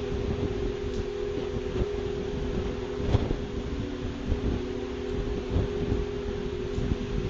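Steady, unexplained droning hum of several held low tones over a rumbling background, with some wind noise on the microphone.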